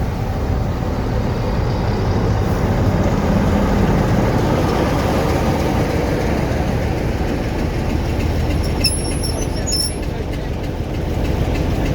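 A train running on the rails with a steady rumble, and a brief high-pitched wheel squeal about nine seconds in.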